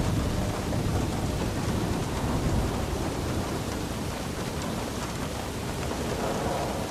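Steady rain falling with a low rumble of thunder that fades over the first few seconds.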